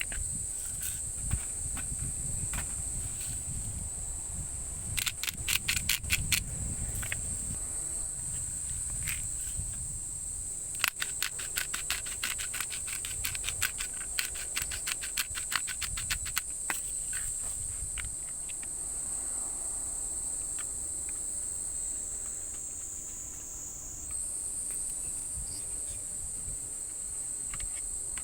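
Insects trilling in a steady high-pitched drone that falters briefly near the end. Two runs of rapid clicks stand out, one about five seconds in and a longer one from about eleven to sixteen seconds.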